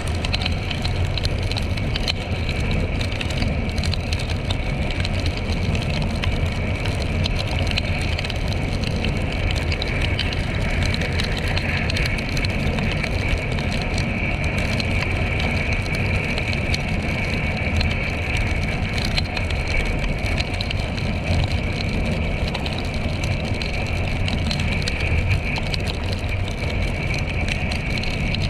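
Yamaha XTZ 150 Crosser's single-cylinder four-stroke engine running steadily under a broad hiss of road and wind noise.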